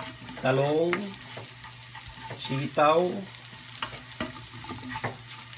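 Sliced red onion and garlic sizzling in oil in a nonstick frying pan, stirred with a spatula that scrapes and clicks against the pan now and then.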